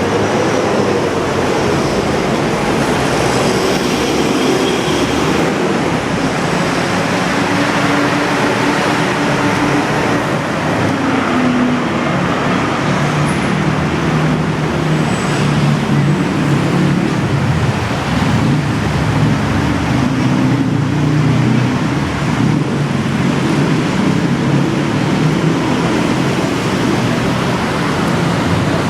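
BTS Skytrain carriage running, heard from inside the car: a steady rumble and rush with a low hum that shifts in pitch.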